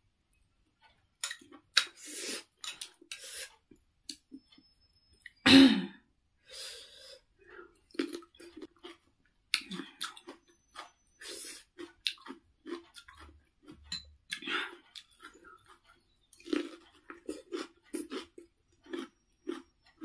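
A person chewing and crunching close to the microphone: bites of raw cucumber and mouthfuls of soup, in a run of short crisp crunches with one much louder mouth sound about five and a half seconds in. In the second half it settles into steady chewing, about two to three chews a second.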